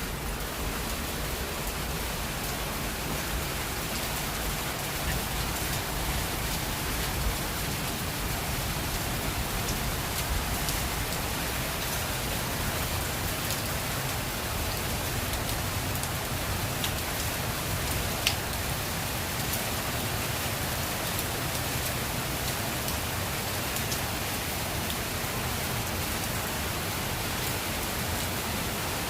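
Heavy rain pouring steadily in a small garden, a dense even hiss with scattered drops ticking on surfaces and one sharper tick about 18 seconds in.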